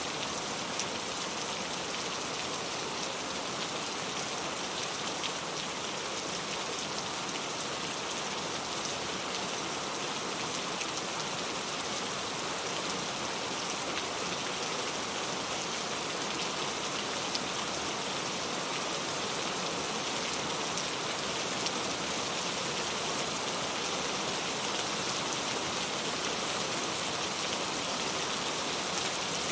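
Steady rain falling, an even hiss with fine scattered drop ticks and no change in intensity.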